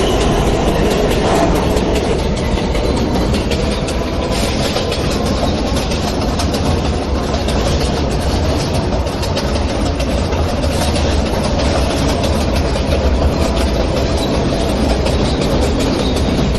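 New York City Subway J train running between stations: a steady rumble of steel wheels on the rails, with faint clicks running through it.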